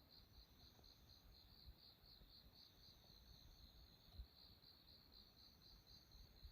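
Autumn insects, crickets, chirping faintly in an even, pulsing trill of about five chirps a second. A soft low thump about four seconds in.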